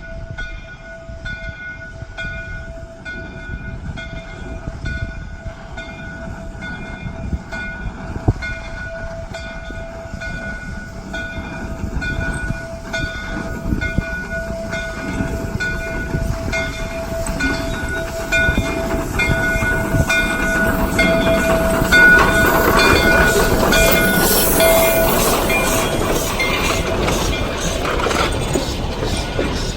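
Shay geared steam locomotive approaching and passing, its exhaust beats and running noise building to a peak over the last third. A bell rings in a steady rhythm throughout.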